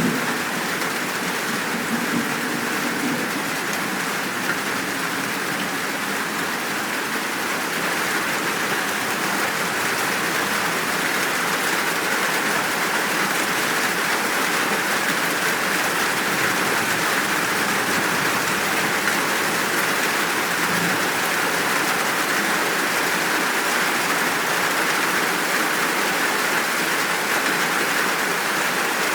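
Steady heavy rain falling: an even, unbroken hiss of a full downpour.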